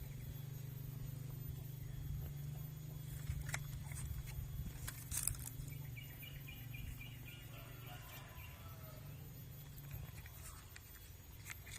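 Outdoor background with a steady low hum, a few sharp clicks of something being handled, and a bird giving a quick run of repeated high notes about six seconds in.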